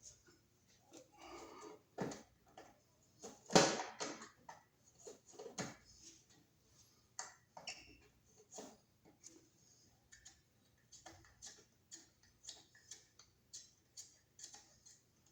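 Screwdriver working at a painted-over screw on a wall outlet: a run of small irregular clicks and a short scrape, with one louder knock about three and a half seconds in.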